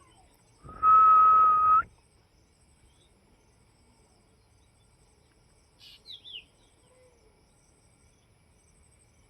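A single loud, steady whistle on one pitch, held for about a second near the start. Faint short bird chirps follow about six seconds in.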